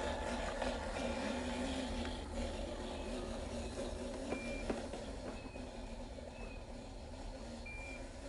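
Radio-controlled truck's small electric motor and gearbox running under strain as the fully loaded truck climbs, with a few short high beeps at uneven intervals and a couple of light clicks about halfway through.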